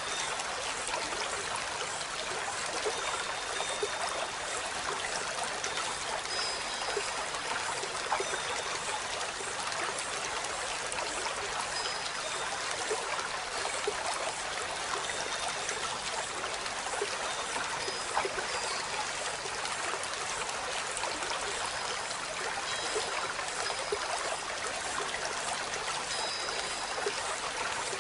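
Steady rushing of running water, like a stream, with a few faint, brief high chirps scattered through it.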